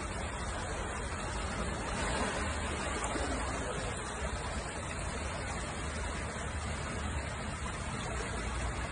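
Steady vehicle road noise with a low rumble, as heard from inside a moving car.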